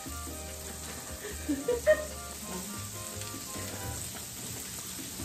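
Battered jeon patties sizzling in oil on an electric griddle, with light background music over them. A couple of brief, louder sounds come about one and a half to two seconds in.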